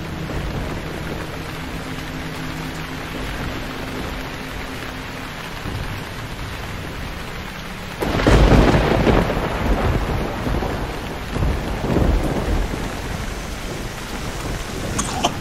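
Heavy rain falling steadily. About halfway through, a loud rolling thunderclap breaks in, with a second swell of rumbling a few seconds later.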